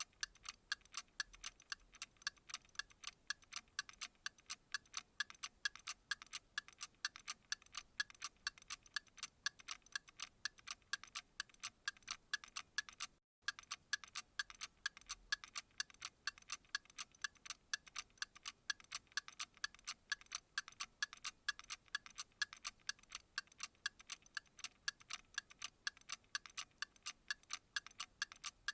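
Steady, rapid ticking in an even rhythm, each tick crisp and sharp, with a split-second dropout to silence about halfway through.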